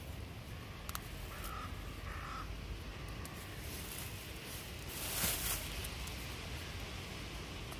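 A bird calls outdoors, two short calls about a second and a half in and a fainter one a second later, over a steady low rumble. A brief rustle of handling comes about five seconds in.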